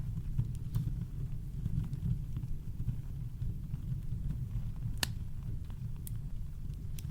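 Campfire crackling, a few sparse sharp pops from the burning wood, the clearest about five seconds in, over a steady deep brown-noise rumble.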